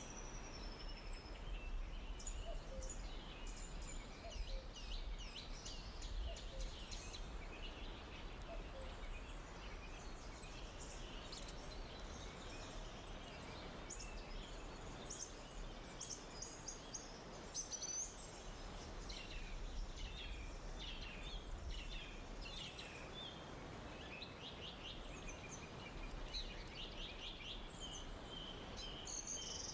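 Forest ambience: many small birds chirping and trilling, overlapping throughout, over a steady faint background hiss and low rumble.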